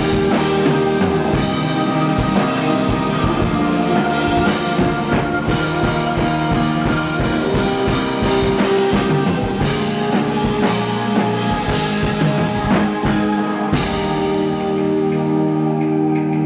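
Indie rock band playing live, with a full drum kit under sustained guitar chords. Near the end the drums drop out, leaving held chords ringing.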